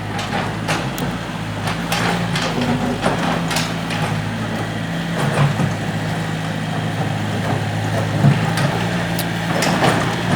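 Excavator engine running steadily, with scattered sharp knocks and clanks.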